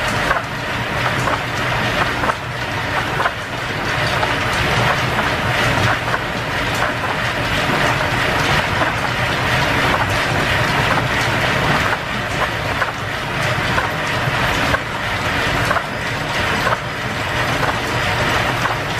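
Steam-driven workshop machinery running: a metal lathe turning steadily through a light cut, with a constant clatter of many small clicks and knocks over a low running hum.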